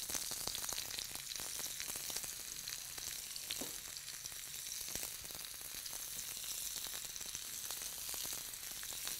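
Cut asparagus frying in olive oil in a non-stick pan: a steady sizzle with many small crackles.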